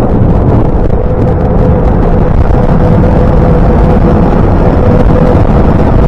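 Train passing close by, a loud, steady rumble with a steady hum running through it.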